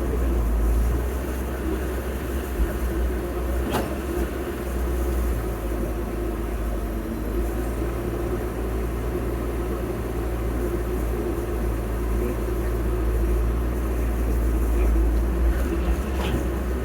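Heavy earthmoving machinery engine running steadily at a low rumble, with a sharp knock about four seconds in and another near the end.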